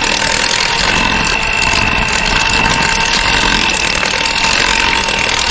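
Electric mixer motor running steadily at speed, a constant whir with a steady high whine, beating blueberry sauce into buttercream frosting.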